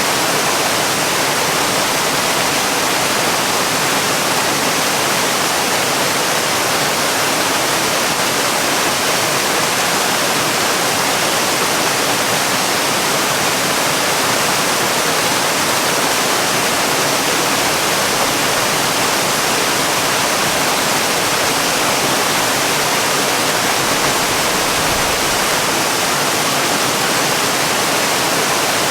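Waterfall: falling water making a steady, even rush, mostly hiss with little low rumble.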